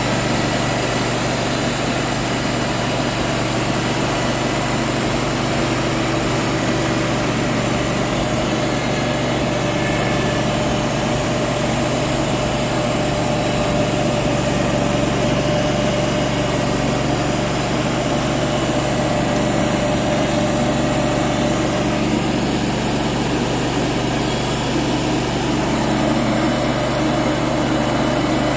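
Wood-Mizer LT35 band sawmill's 25-horsepower engine running steadily while the band blade cuts through a large cedar log, a slow cut because the log is big.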